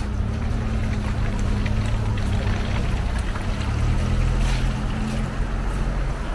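A parked sedan's engine idling close by: a steady low hum, with footsteps on paving ticking faintly over it.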